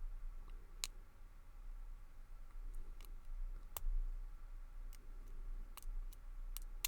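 Lock pick working the pin stack of a brass padlock under tension: about half a dozen small, sharp clicks, spaced unevenly a second or so apart.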